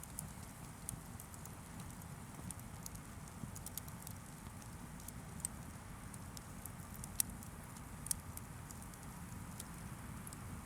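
Wood fire crackling: irregular small sharp pops over a low steady rumble, with two louder pops about seven and eight seconds in.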